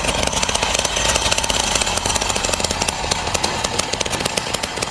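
A loud power tool or machine running with a fast, even rattling beat.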